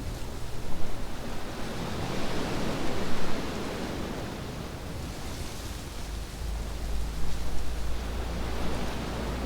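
Waves washing onto a beach, surging up three times over a steady rush of surf, with a low rumble joining about two-thirds of the way through.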